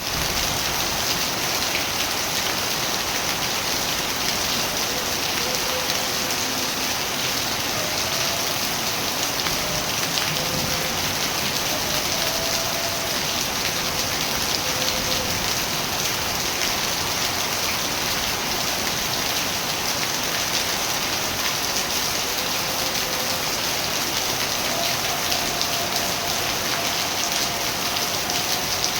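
Steady rain falling, an even unbroken hiss of drops on surfaces.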